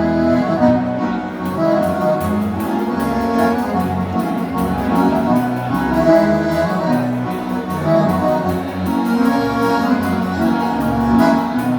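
Live gaúcho dance band playing an instrumental passage led by a button or piano accordion (gaita), over a bass line and a steady percussion beat.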